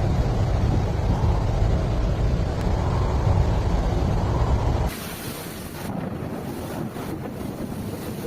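Loud, deep noise of wind buffeting the microphone over rushing floodwater. It cuts abruptly about five seconds in to a quieter stretch of water and wind noise with a few faint knocks.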